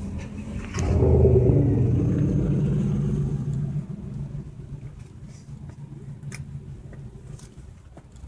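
Toyota car's engine running, heard from inside the cabin: a low rumble that swells about a second in, holds for about three seconds, then settles to a quieter hum.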